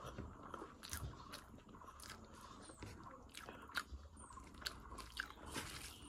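A person chewing a mouthful of jackfruit and pork curry with rice close to the microphone: wet mouth clicks and smacks at irregular intervals, the sharpest about four to five seconds in.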